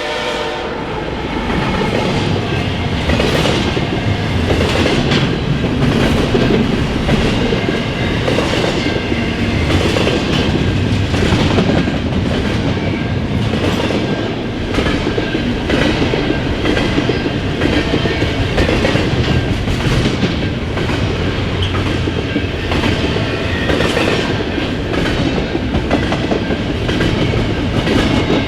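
CN freight train passing at close range, its wheels clattering over rail joints in a steady rhythm of clicks over a continuous rolling rumble.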